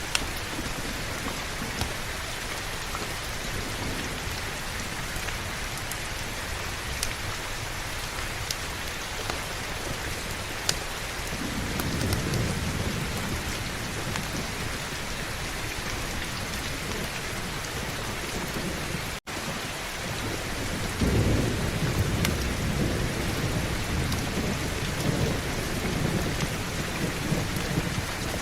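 Heavy, steady rain, with low thunder rumbling in about twelve seconds in and again for the last third. The sound drops out for an instant a little past the middle.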